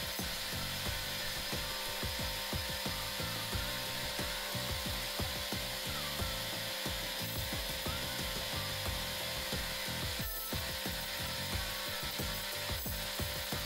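A power tool running steadily, working on a saw blade or on wood, with a rough grinding texture and a steady hum.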